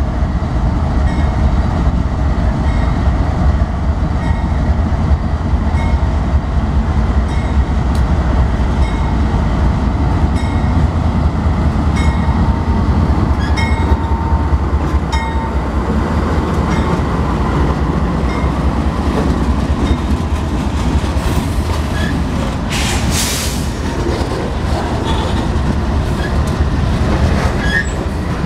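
Freight train passing close by: several diesel-electric locomotives rumble past, then loaded covered hopper cars roll by, their wheels clicking evenly over rail joints. A brief high wheel squeal comes a little past two-thirds of the way through.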